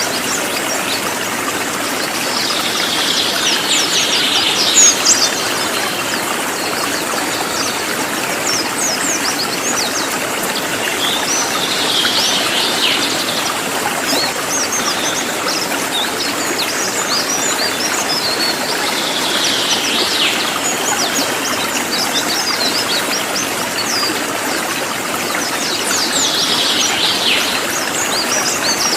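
Cililin, a forktail, calling repeatedly in sharp, high, rapid notes, with denser bursts of calls every several seconds. The calls sit over the steady rush of a running stream.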